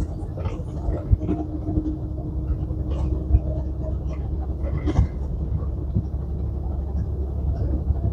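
Semi truck's PACCAR diesel engine running under way, heard from inside the cab as a steady low rumble with scattered knocks and rattles. A steady hum sits over it and stops about five seconds in.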